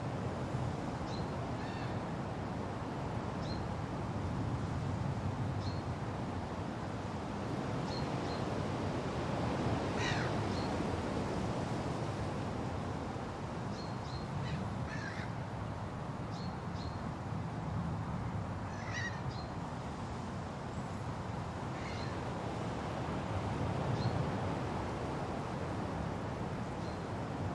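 Steady wind rushing through forest foliage. Scattered short, high bird chirps run throughout, and a few louder, harsher bird calls come about ten, fifteen and nineteen seconds in.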